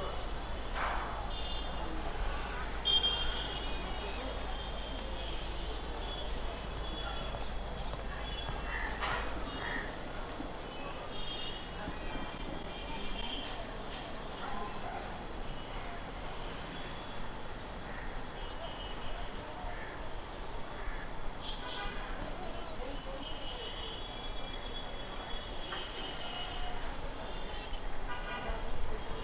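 Insects chirping: a steady high trill, joined about nine seconds in by a second insect pulsing a couple of times a second.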